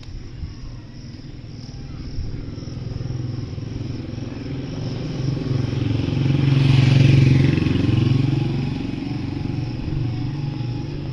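Motorcycle engine running, growing louder to a peak about seven seconds in, then fading.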